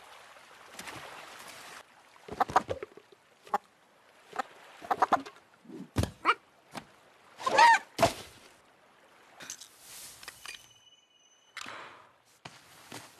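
Film sound effects: a string of separate short knocks, thuds and small noises with quiet gaps between, and a brief squawk-like gliding call about halfway through.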